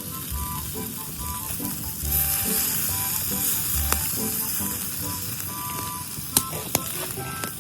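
Meat sizzling on a hot grill over a fire pit, a steady hiss that grows louder about two seconds in. Two sharp clicks near the end, over background music.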